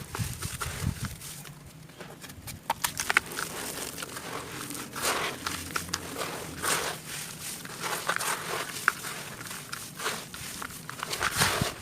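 Close-miked crunching and chewing of something crunchy, in a run of short crackling crunches about once a second with a few sharp cracks.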